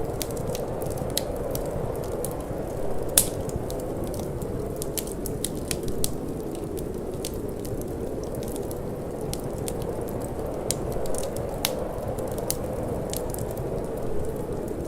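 Wood fire crackling in a fireplace, with irregular sharp pops and snaps and one loud snap about three seconds in, over a steady low rush of cold wind.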